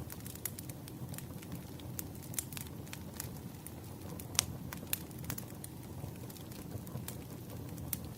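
Wood fire crackling: a low steady rumble of flames under irregular sharp pops and snaps from the burning firewood, the loudest pop about four seconds in.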